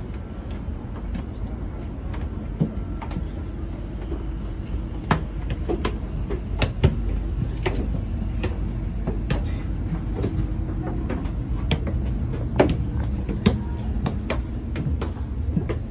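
Interior of a stationary Trenitalia double-decker regional train carriage: a steady low hum with scattered, irregular sharp clicks and knocks.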